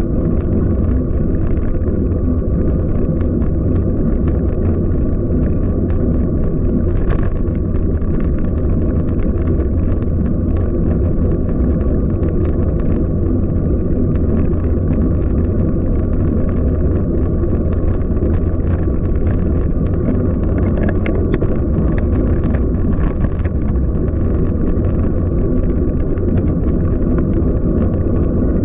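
Steady, loud low rumble of wind buffeting the microphone, with road noise, while riding a bicycle through city streets. Faint scattered ticks come through on top.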